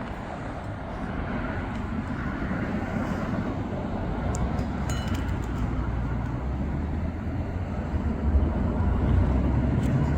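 Steady outdoor background noise with a low rumble that grows stronger about four seconds in, and a few short clicks about halfway through.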